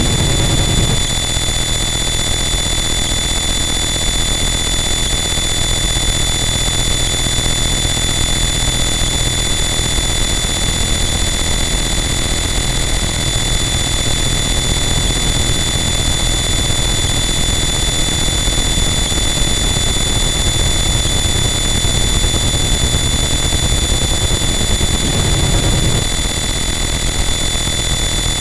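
Harsh noise wall: a loud, unbroken wall of distorted static with steady high whining tones over a rumbling low end, barely changing, with a small shift in the low rumble near the end.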